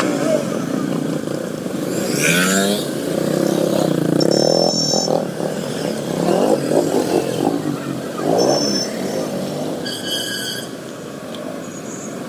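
Several motorcycles running and revving together, their engine pitch rising and falling, with a few short horn beeps; the longest beep comes about ten seconds in.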